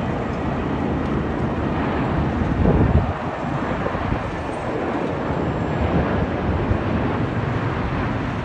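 Steady jet airliner rumble, with a louder swell about three seconds in.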